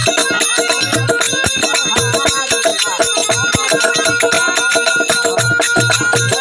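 Instrumental break of a Rajasthani folk bhajan: dholak drum beats and fast jingling manjira cymbal strokes over held melody notes.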